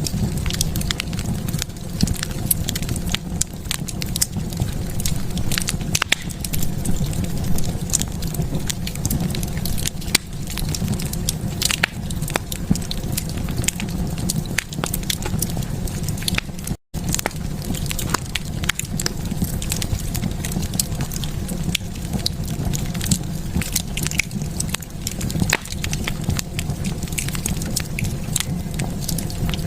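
Wood fire burning in a fireplace, with irregular sharp crackles and pops over a steady low rumble of the flames. The sound cuts out for a split second a little past halfway.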